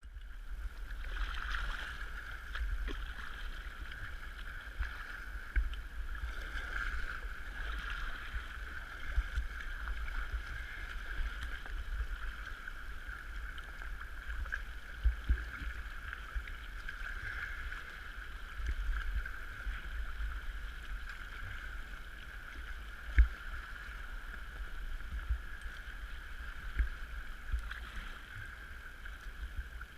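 Kayak on the sea: steady water wash and splashing around the hull and paddle, over a constant low rumble, with a few sharp knocks scattered through.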